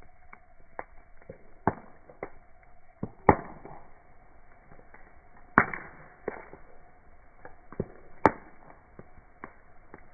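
Campfire wood crackling, with scattered sharp pops at irregular intervals; three louder pops stand out, about three, five and a half and eight seconds in.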